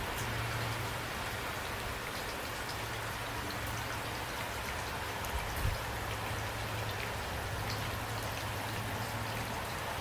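Steady rain falling, an even hiss with scattered individual drops ticking, over a steady low hum. A brief soft low thump comes about five and a half seconds in.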